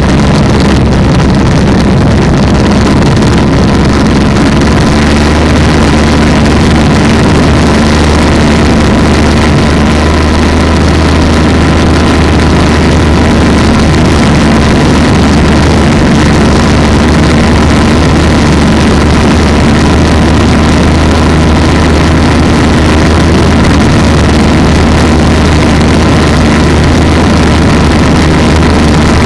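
Polini 190 single-cylinder two-stroke engine of an ATF ultralight trike running steadily at an even speed.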